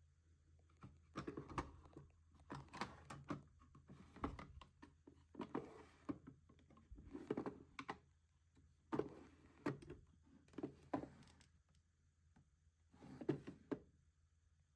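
Intermittent handling noises in a small room: clusters of rustling and light clicks and knocks of small objects being picked up and set down, every second or two.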